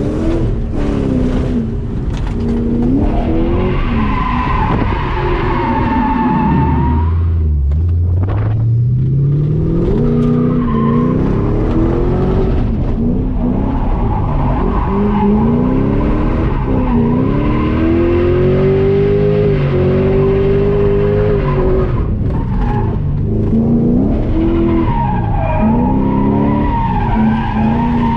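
Stock Ford Mustang's 4.6-litre three-valve V8, heard from inside the cabin, revving up and down hard while drifting, with the tyres squealing. The engine drops low about seven seconds in, then climbs again.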